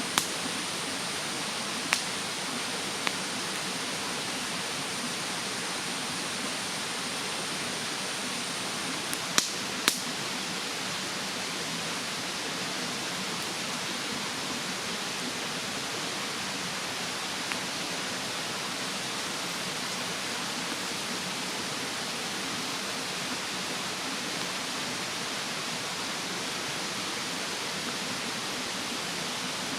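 Wood fire in a fire stand giving a few sharp crackling pops, the two loudest close together about ten seconds in, over the steady rush of a mountain stream.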